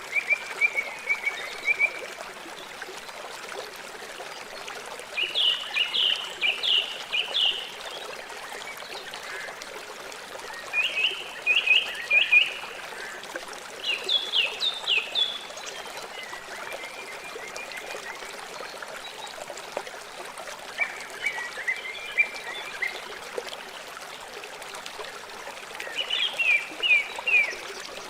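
River water running steadily, with a songbird singing short phrases of quick falling notes every few seconds, about six times.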